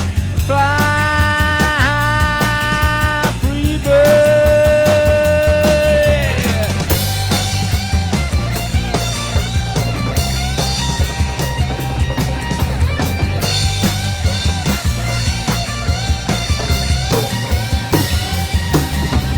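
Rock music: an electric guitar lead over a steady drum beat. It plays held, bent notes, then a long sustained note that slides down in pitch about six seconds in, then fast repeated runs of notes.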